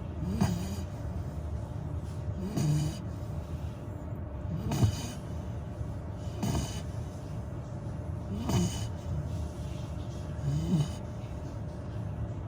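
Labrador retriever puppy snoring in its sleep, one snore about every two seconds, six in all.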